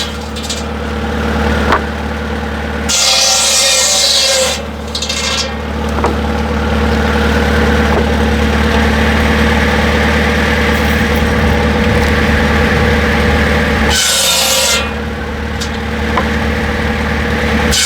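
A machine running steadily with a constant low hum. Harsh rasping, grinding noise comes over it twice, a little after the start and near the end.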